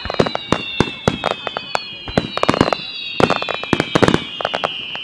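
Aerial fireworks shells bursting in quick succession: a rapid, irregular string of sharp bangs and pops, several a second. A thin high tone drifts slowly down in pitch beneath them.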